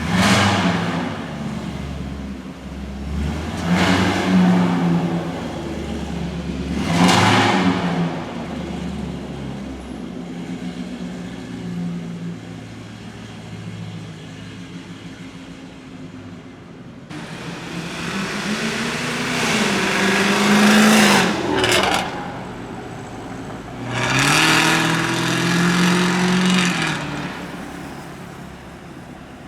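Supercar engine revved three times in short blips, a few seconds apart, then idling, then revved twice more in longer pulls that rise and fall in pitch in the second half.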